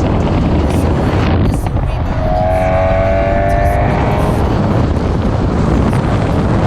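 Car engine and exhaust running loud, with a slightly rising rev about two seconds in. Music plays underneath.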